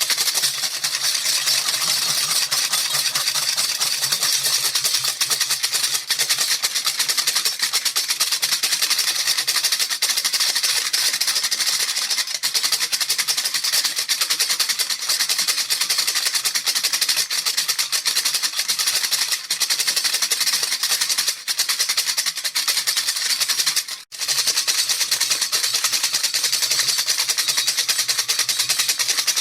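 A rattle shaken fast and steadily, a dense continuous rattling of small beads with a brief pause about 24 seconds in.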